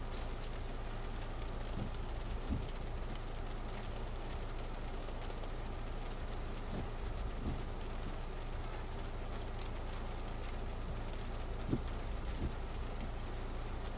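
Rain falling on a car's roof and windshield, heard from inside the car, over a steady low hum. A few soft knocks come now and then, and the windshield wiper sweeps once near the end with a couple of knocks.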